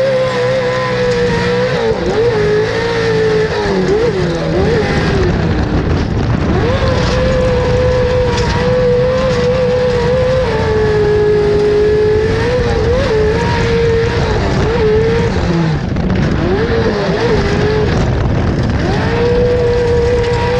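Off-road race truck's engine held at high revs. The pitch drops and climbs back several times as the throttle is lifted and reapplied, with a lower steady stretch near the middle.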